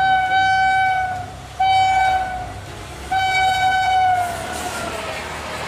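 Electric locomotive horn of the Mumbai Rajdhani Express sounding three blasts, a long one, a short one and a long one, the last dropping in pitch as the train passes at speed. Near the end the rushing noise of the train going by builds up.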